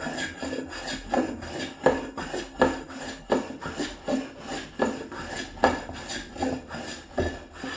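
Freshly sharpened hand plane taking repeated strokes along a wooden board, about ten shearing swishes a little under one a second, each cutting a shaving cleanly; the strokes stop near the end.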